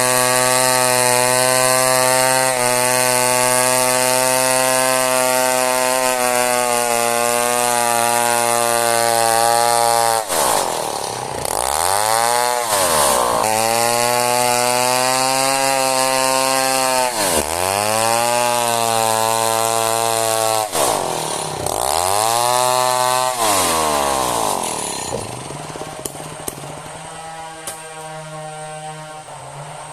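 Chainsaw cutting hardwood merbau timber at high revs; three times the engine speed dips and climbs back, and near the end it drops to a quieter, lower idle.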